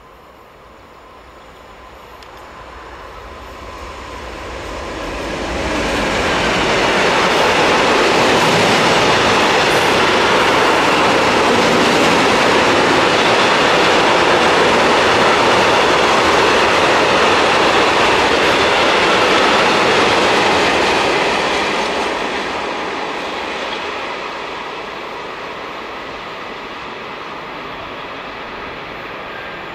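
Freight train of tank wagons hauled by an electric locomotive approaching and passing close by, its wheels running on the rails. It swells over the first few seconds, stays loud for about fifteen seconds as the wagons roll past, then fades as the train moves away.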